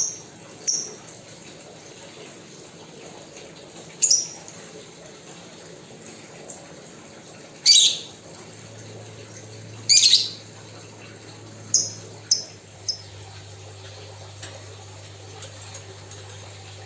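Pet birds giving short, sharp high calls every second or few seconds, about nine in all, the two loudest and harshest near the middle. A faint low hum comes in about halfway through.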